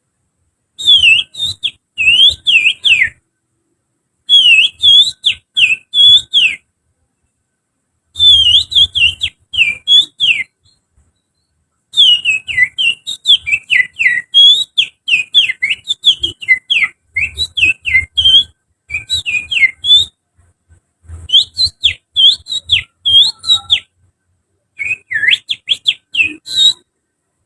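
A person whistling through the fingers in imitation of an oriental magpie-robin's (kacer) song. Quick, high, sliding whistled notes come in six phrases, the longest lasting about eight seconds, with short silences between them.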